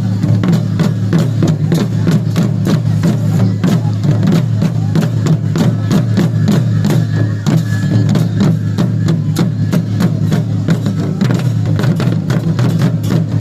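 Traditional Nepali drumming accompanying a Dhami dance, the drums struck in a fast, steady beat without a break, with voices mixed in.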